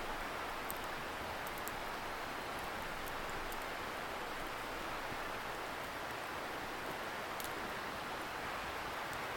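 Steady rushing hiss of a distant river, with a few faint, sharp crackles from a wood campfire.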